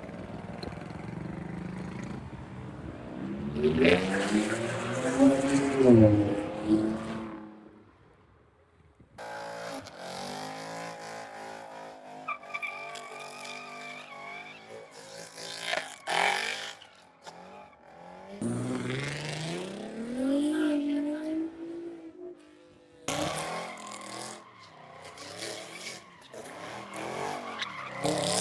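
Performance car engines revving hard, the pitch climbing and dropping several times, with tyre squeal mixed in. The sound breaks off and restarts abruptly a few times.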